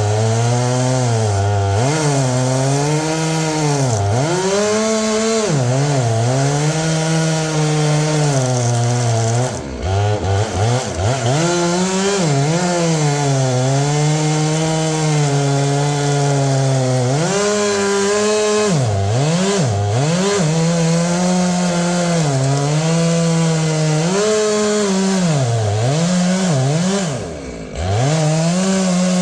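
Stihl two-stroke chainsaw cutting ironwood at high revs, its engine pitch sagging again and again as the chain loads up in the dense wood, then recovering. The revs drop off briefly twice, about ten seconds in and near the end.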